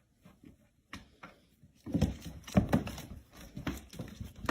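A few faint clicks, then from about two seconds in a run of irregular thumps and knocks.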